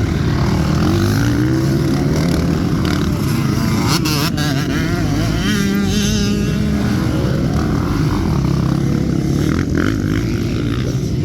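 Motocross bike engine running loudly, its pitch rising and falling as the throttle is opened and closed.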